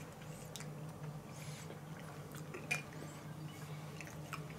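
Faint chewing of a soft grilled tomato, with small mouth clicks and one slightly louder click a little past the middle, over a low steady hum.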